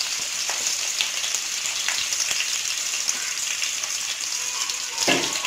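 Sliced shallots and garlic sizzling in hot oil in a kadai: a steady frying hiss with scattered small crackles, and one louder knock near the end.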